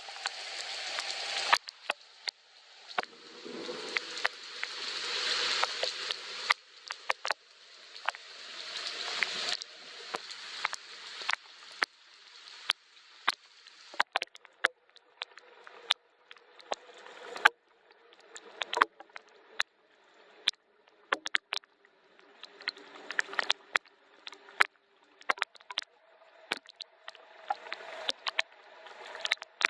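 Soft rain, with many separate drops tapping close by over a patter that swells and fades every few seconds.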